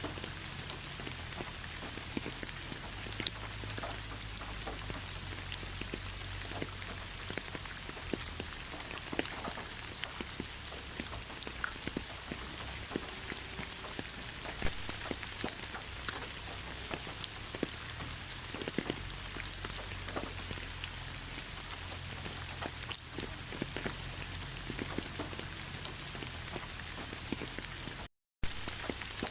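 Steady rain falling, with many individual drops ticking on a surface over an even hiss. The sound cuts out for a moment near the end.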